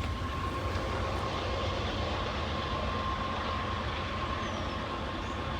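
Freight train of tank cars rolling steadily past, a continuous rumble of wheels on rail with a thin, steady high ringing tone over it.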